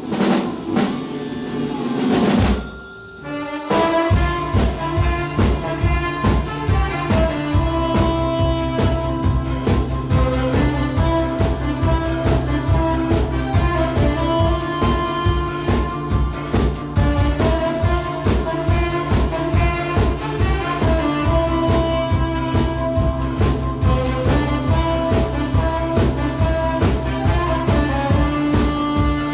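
A drum kit and a saxophone playing a trot song together. After a short intro and a brief drop about three seconds in, the drums come in with a steady beat about four seconds in, under a melody of long held notes.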